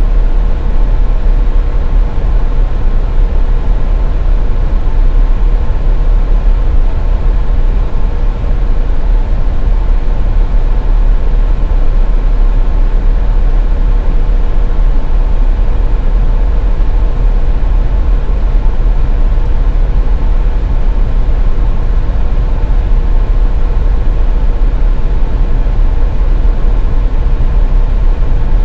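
Car driving on a snowy highway: a steady low rumble of tyres and engine with a faint constant hum.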